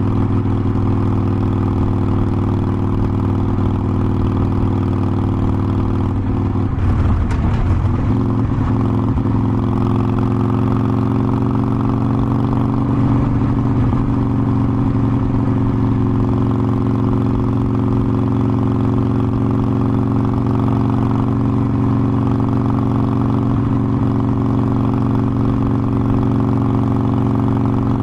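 Harley-Davidson Forty-Eight Sportster's air-cooled V-twin running steadily under way, its note briefly unsettled and shifting about seven seconds in before settling again.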